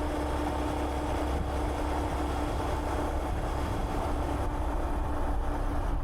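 Honda Monkey 125's single-cylinder four-stroke engine running at a steady pace while riding, its note holding even throughout.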